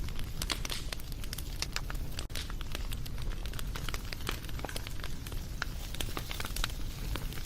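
Wood fire crackling, with irregular snaps and pops over a steady low rumble.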